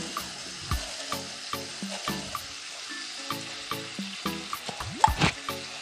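Onion and tomato masala sizzling as it fries in oil in a nonstick pan, with one sharp knock about five seconds in.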